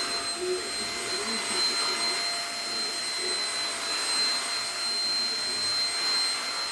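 Handheld Keromee UV dust mite vacuum cleaner running steadily: an even motor and airflow noise with a constant high-pitched whine on top.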